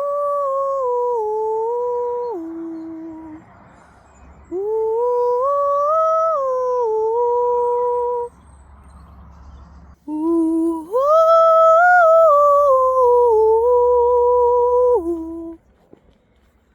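Vocal toning: a voice singing three long wordless tones, each held and stepping up and down in pitch, with short pauses between them.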